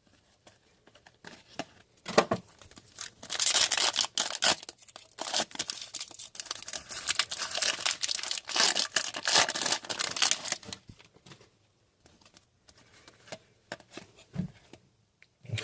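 Foil wrapper of a hockey card pack being torn open and crinkled, a dense crackling run lasting several seconds in the middle, with a few light clicks and soft knocks of card handling before and after.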